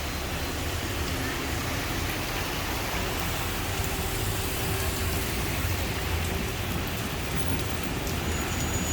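Torrential rain pouring down steadily, a continuous even hiss of heavy rain on the street.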